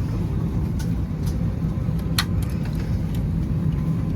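Steady low rumble of airliner cabin noise, with a single sharp click about two seconds in.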